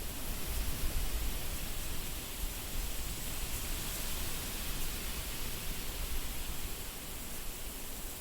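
Wind blowing in a steady rush with a low rumble underneath, swelling slightly midway.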